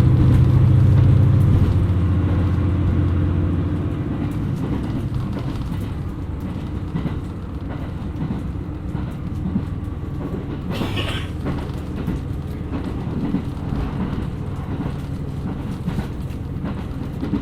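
KiHa 127 series diesel railcar under way: the diesel engine is loud for the first couple of seconds, then eases off as the train coasts, leaving steady wheel-on-rail running noise. A short, sharp sound comes about eleven seconds in.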